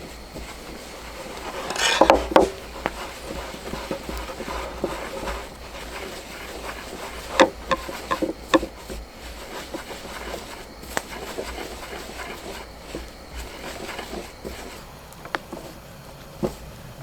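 Handling sounds: rustling with scattered sharp knocks and clatter, the loudest cluster about two seconds in and a quick run of three knocks around eight seconds in, over a steady low hum.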